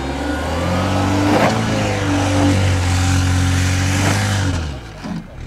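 Renault Arkana's 1.3 turbo petrol engine revving under load: the revs build over the first second, hold steady for about three seconds, then drop away near the end.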